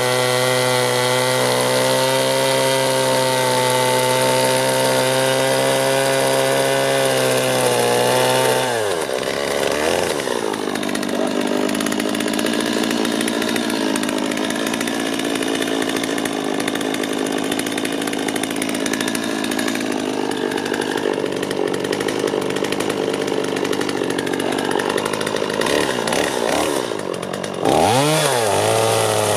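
A power tool's motor running steadily at speed, then bogging down with a drop in pitch about nine seconds in as it bites into the wood, working under load with a rough rasping sound, and speeding back up near the end as it comes off the wood.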